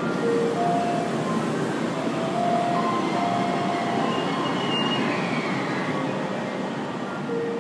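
A JR West Thunderbird limited express electric train rolling slowly along a station platform as it brakes to a stop, a steady rumble with a few short, faint squeals.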